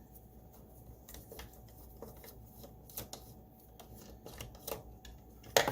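Light clicks and scrapes of a screwdriver working a screw and of plastic parts of a Roomba i7 being handled during disassembly, with one louder sharp click near the end.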